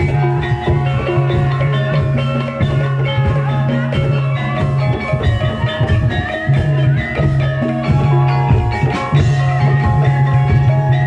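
Javanese gamelan music accompanying a barongan dance: struck metallophones ring out a running melody over drums, with a low held tone underneath.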